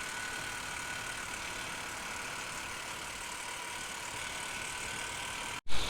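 Motorcycle running at a steady speed, a constant engine hum under wind and road hiss. The sound cuts out abruptly for an instant near the end.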